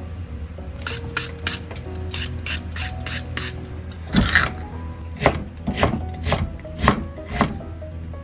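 Kitchen prep clatter of utensils on a board or dish: a quick run of light taps, then about six louder knocks about half a second apart, over soft background music.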